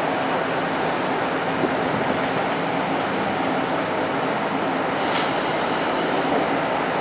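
Steady engine and running noise of a diesel railcar heard from inside the cabin as it comes to a halt. About five seconds in there is a brief high-pitched hiss.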